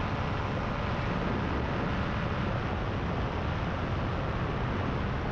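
Paramotor engine and propeller running steadily in flight, a constant drone with wind rushing across the microphone.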